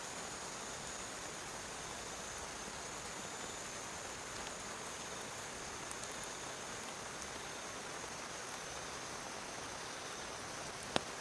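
Steady rain falling, an even hiss, with one sharp click near the end.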